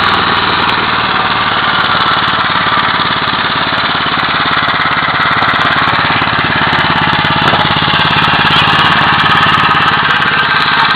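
Briggs and Stratton 5 hp Industrial Plus single-cylinder petrol engine running steadily at a constant speed, driving a log splitter's hydraulic pump.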